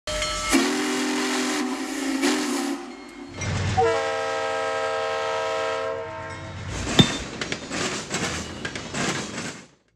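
A steam locomotive whistle sounds a low chord for about two and a half seconds, then a diesel locomotive air horn blows a higher chord for about two and a half seconds. After that a freight train rolls past with rattling and sharp wheel clicks, cutting off just before the end.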